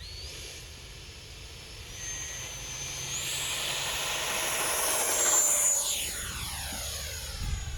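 Electric ducted fan RC jet: a high whine that steps up in pitch twice and grows louder as it passes close about five seconds in, then drops slightly in pitch and fades away.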